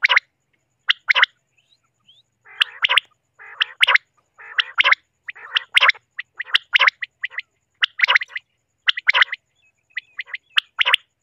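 Common quail calling over and over: sharp notes in quick pairs and threes about once a second, with softer raspy notes between them for a couple of seconds.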